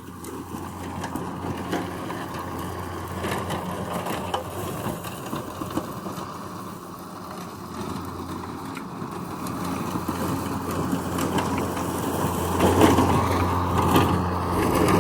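Mowrator S1 battery-powered remote-control mower running, a steady motor hum with scattered crackling, growing louder through the second half.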